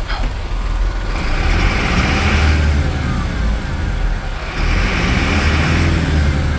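Mercedes-Benz Atego 917 truck's diesel engine running with a steady low rumble, growing louder twice for about two seconds each time.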